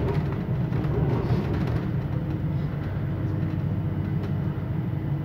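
Steady rumble of a passenger train coach running along the rails, heard from inside the carriage, with a couple of faint clicks near the end.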